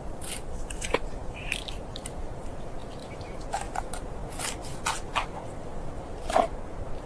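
A dozen or so irregular, sharp crackles and crunches over a low steady rumble, the loudest about six seconds in.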